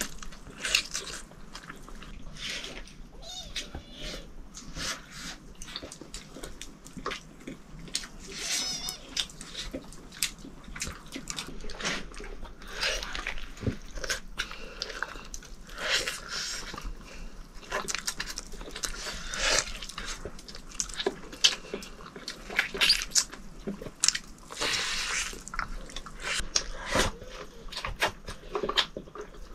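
Close wet chewing, biting and lip-smacking as a large piece of boiled pork with fat and skin is eaten by hand, in irregular smacks and squelches.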